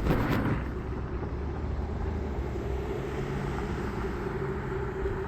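Car engine and road noise heard from inside the cabin while driving: a steady low drone, with a faint hum joining about three seconds in.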